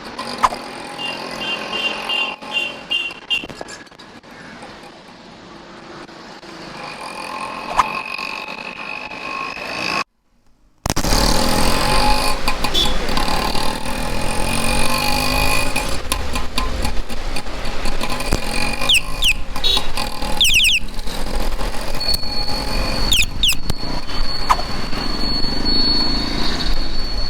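Street ambience heard from a moving bicycle, with motorcycles and cars passing. The sound cuts out briefly about ten seconds in, then returns as a louder, steady traffic rumble with a few short high-pitched sounds.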